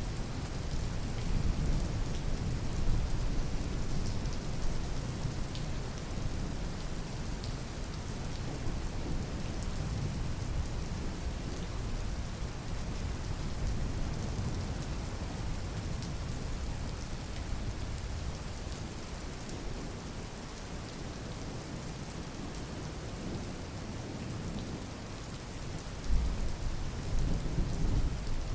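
Steady rain falling, with scattered drop ticks and a continuous low rumble underneath that swells and eases.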